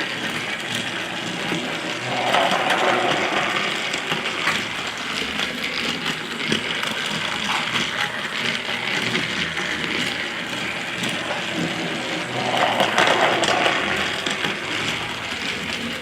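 Battery-powered toy train's small motor whirring as it runs along plastic track, with a continuous rattle, growing louder twice.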